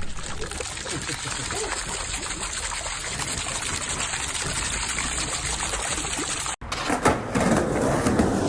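Fountain water splashing and pouring in a steady rush. It breaks off for an instant about six and a half seconds in and comes back somewhat louder.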